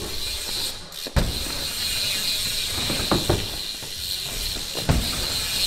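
BMX bike's freewheeling rear hub clicking as it coasts, with sharp knocks of the bike hitting the wooden ramps about a second in, around three seconds in, and near the end.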